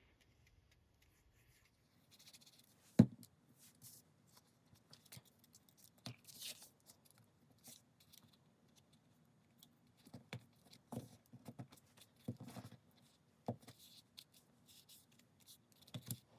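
Faint rustling and light taps of paper and chipboard pieces being handled and pressed down on a table, with one sharper knock about three seconds in.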